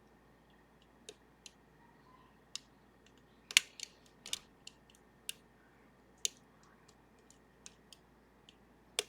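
Irregular sharp metallic clicks of lock-picking tools working the levers of a Sargent and Greenleaf 4440 safety deposit box lever lock, the loudest about three and a half seconds in.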